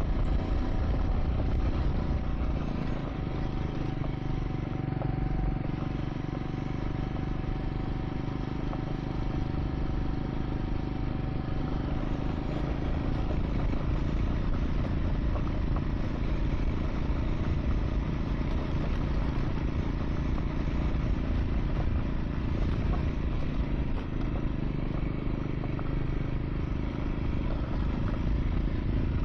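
Triumph Scrambler 400 X's single-cylinder engine running at a steady pace while riding a gravel track, with wind rush over the microphone.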